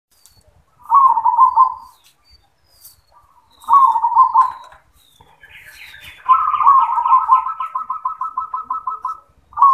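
Zebra dove (perkutut) cooing: two short rolling coo phrases, then a long rapid series of repeated coo notes, and a fresh phrase starting near the end. Fainter, higher chirps sound over the middle.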